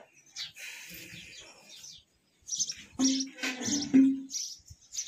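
Small birds chirping in quick, high twitters, with a few short low steady notes underneath.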